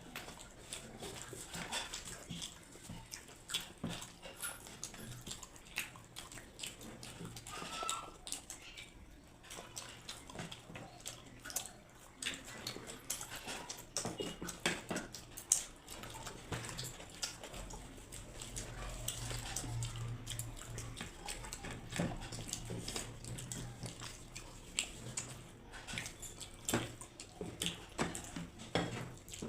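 People eating karaishutir kachuri (pea-stuffed fried bread) with aloor dum: close chewing, lip smacks and small mouth clicks, irregular throughout, with a low hum swelling up past the middle.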